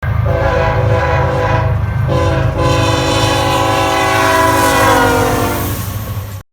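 Union Pacific freight locomotive sounding its multi-chime air horn: a short blast, then a long blast whose pitch sinks toward the end, over the low rumble of the diesel locomotive and train. The sound cuts off abruptly near the end.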